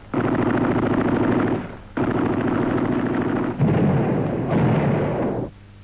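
Four bursts of rapid automatic gunfire, each lasting about a second to a second and a half, with short gaps between them, ending shortly before the close.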